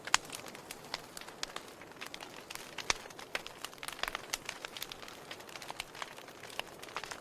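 Wood fire burning in a fireplace, crackling: a soft steady hiss with frequent sharp, irregular pops and snaps, the loudest just after the start and about three seconds in.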